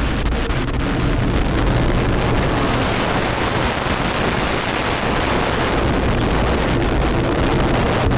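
Minotaur I rocket's solid-fuel first-stage motor at liftoff: a loud, steady, crackling rocket-motor noise.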